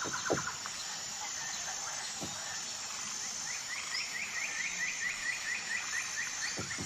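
Birds in woodland: a trill of rapid repeated notes, about six a second, runs for some three seconds in the second half. A couple of low knocks from a woodpecker tapping on wood come earlier, with the end of another quick trill at the very start.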